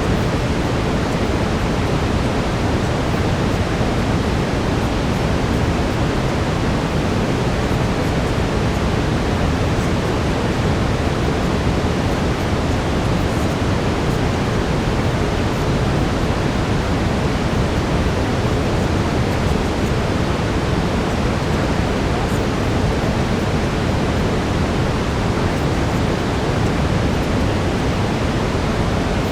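Steady synthetic brown noise, a deep, even hiss with most of its weight in the low end, with a faint steady tone near 432 Hz mixed under it.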